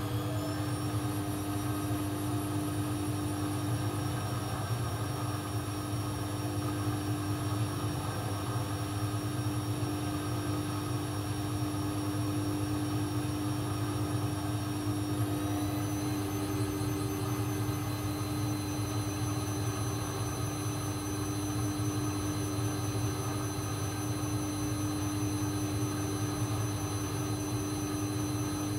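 AEG Lavamat 1400 washing machine spinning: a steady drum hum with a high motor whine that steps up in pitch near the start and again about halfway through, as the spin speed is raised in stages.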